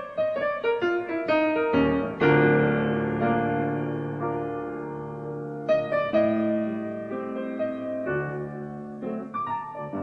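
Instrumental passage of a piano ballad: a quick run of piano notes, then a full chord about two seconds in that rings and fades, with more chords near six and nine seconds.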